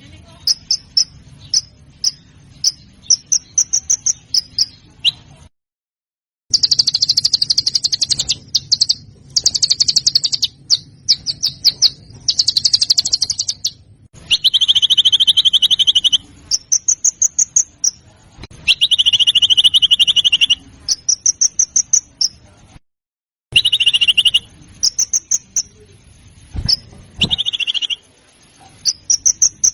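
Recorded songbird song: bursts of rapid, sharp, high chattering notes and fast trills, some buzzier and lower, with two brief dead-silent breaks where recordings are spliced together.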